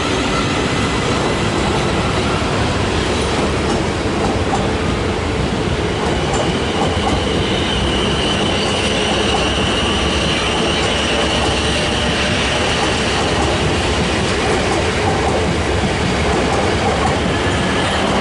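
Southern class 377 Electrostar electric multiple unit pulling into the platform, its wheels clicking over rail joints. A steady high wheel squeal runs from about six seconds in to about fourteen seconds in.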